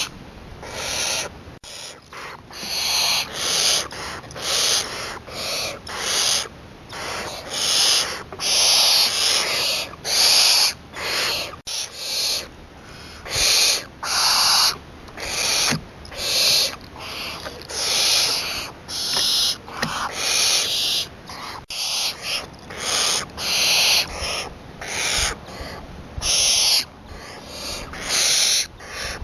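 Young barn owl calling with a long series of hissing screeches, about one a second, each lasting around half a second to a second. These are typical of a barn owl nestling's begging calls.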